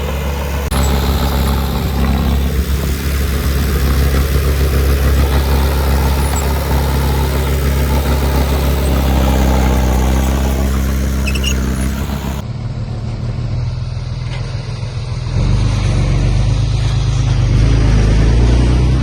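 Heavy diesel earthmoving machine's engine running steadily under load, with a deep low note. About twelve seconds in the sound changes abruptly to a duller engine note with the treble gone, as from a cut to another shot.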